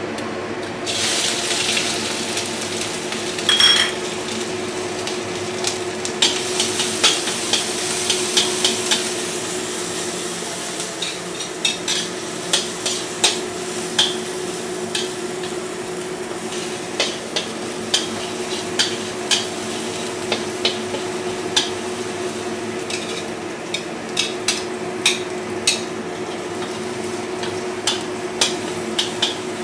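Minced ginger sizzling in hot oil in a stainless steel wok, the sizzle starting about a second in. A spatula stirs and taps against the wok with frequent clicks.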